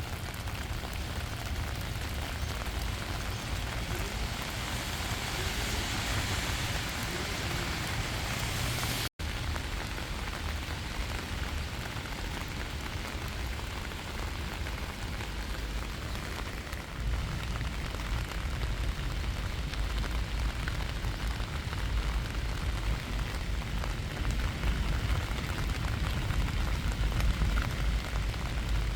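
Steady rain falling, an even hiss of drops, over a low rumble that grows stronger about two-thirds of the way through. The sound cuts out for a split second about nine seconds in.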